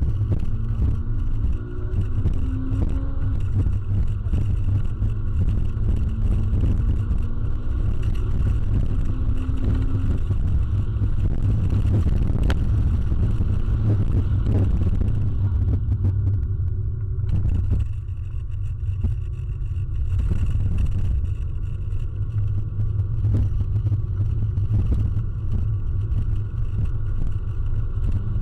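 Inside the cabin of a 2006 Toyota Corolla XRS being driven on track: its 1.8-litre four-cylinder engine and the road noise make a steady, heavy low drone. The engine pitch climbs during the first ten seconds, and the sound dips briefly about seventeen seconds in.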